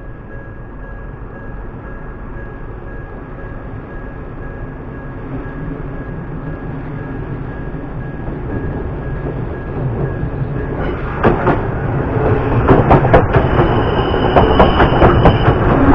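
Electric commuter train approaching and passing close by over a level crossing, its rumble growing steadily louder. In the last few seconds the wheels clack sharply over the rail joints as the cars go past.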